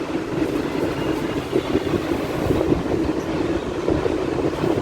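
Steady low rumbling noise with an irregular flutter, unbroken and even in level.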